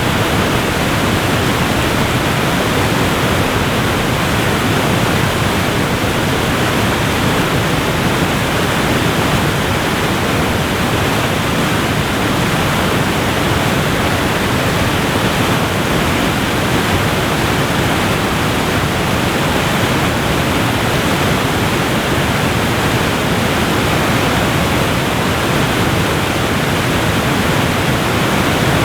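Waterfall rushing, a loud steady noise of falling water with no breaks.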